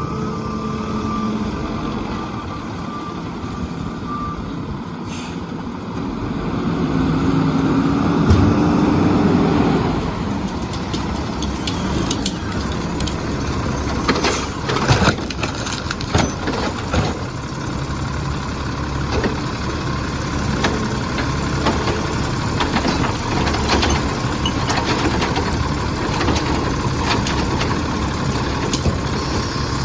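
Peterbilt garbage truck with a Heil Rapid Rail automated side-loader body working at the curb: reversing beeps for about the first second, then the engine revs up for a few seconds. After that come a run of sharp bangs and clatter and scattered knocks over the steadily running engine.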